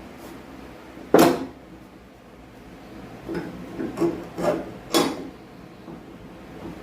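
Parts being handled and set down during a restoration: one loud sharp knock about a second in, then a run of smaller knocks and clinks.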